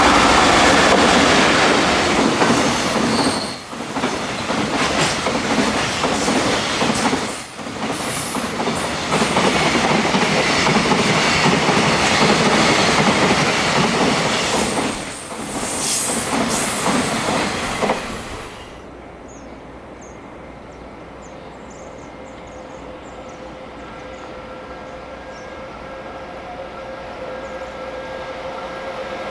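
A freight train's wagons passing at speed, with loud rumbling and clatter dipping briefly a few times, and a high squeal from the wheels. The train sound drops off sharply about 18 seconds in, leaving quieter rail-side noise that slowly grows louder as the next freight train approaches.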